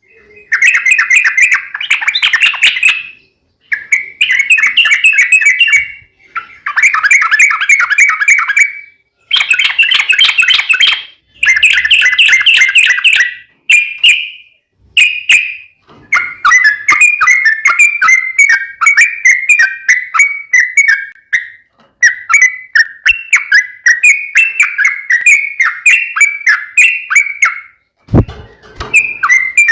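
Yellow-vented bulbul (trucukan) singing. Short bubbling phrases of quick chirped notes come with brief pauses between them, and from about halfway through give way to long unbroken runs of rapid notes.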